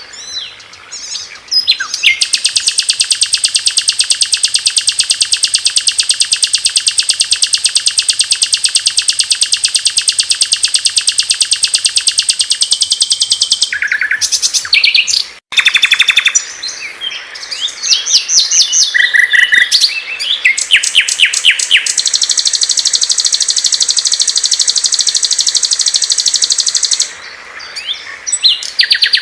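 Small songbirds singing, recorded as masteran song for training cage birds. Two long, very fast high trills of about ten and five seconds are separated by a break and an assortment of short chirps and whistled notes.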